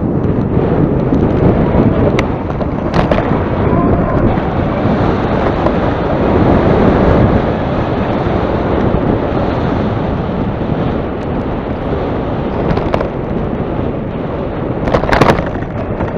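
Strong wind buffeting the microphone, heard as a loud, deep, unbroken rush of noise, with a few sharp clicks about three seconds in and again near the end.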